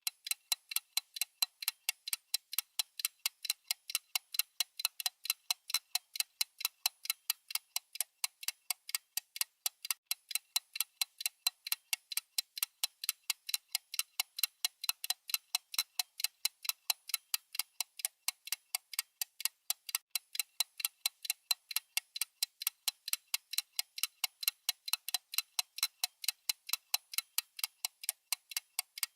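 Clock-style ticking sound effect: fast, evenly spaced, crisp ticks keeping a steady beat under a countdown timer.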